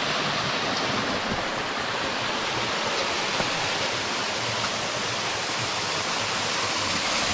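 Creek water rushing steadily over a series of rock cascades.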